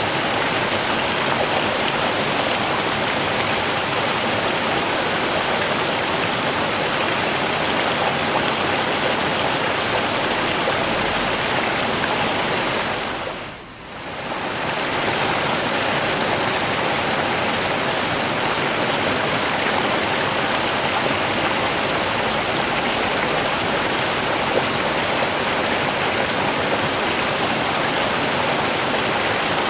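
Steady rushing of river water flowing, an even wash of noise. About halfway through it fades down briefly and comes straight back up, as at a splice in a looped recording.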